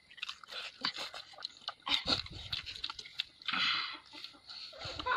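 Close-up eating sounds: wet chewing and lip-smacking clicks from people eating rice and chicken by hand, with a brief rushing breath or slurp about three and a half seconds in.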